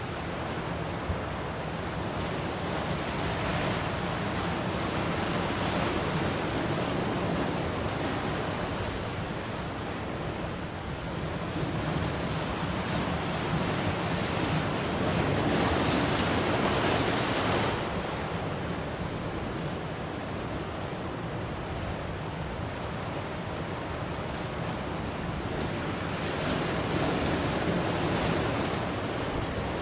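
Ocean surf: waves breaking and washing in as a continuous rush, swelling three times, with the loudest surge about halfway through.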